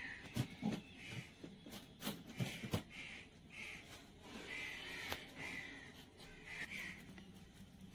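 Birds calling again and again in short calls, with a few sharp knocks, mostly in the first three seconds.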